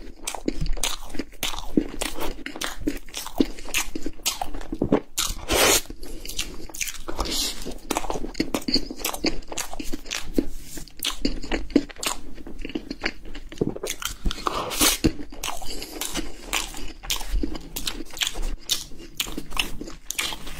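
Close-miked chewing and biting of a cream-filled puff pastry, with irregular crunches and mouth sounds.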